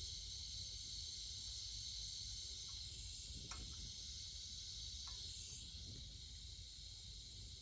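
Gas soldering torch flame hissing steadily while heating a joint for silver soldering, with a low rumble beneath and a few faint light clicks.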